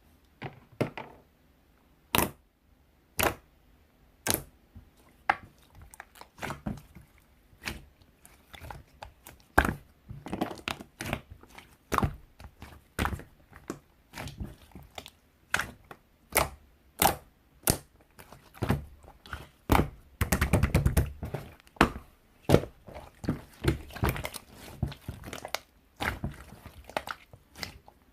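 Irregular sharp taps and knocks, roughly one or two a second, with a short stretch of busier rustling and knocking about twenty seconds in.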